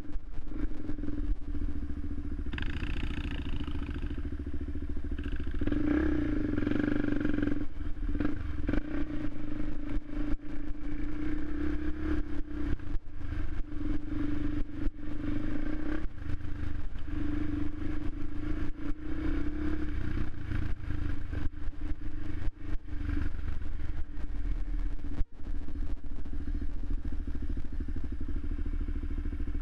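Suzuki LTZ 400 quad's single-cylinder four-stroke engine running steadily, with two brief louder swells in the first third.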